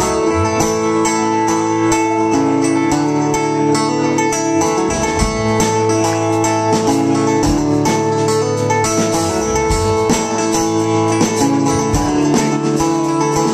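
Live band playing the instrumental intro of a country-rock song: strummed guitar over sustained bass notes with a steady beat, before the vocals come in.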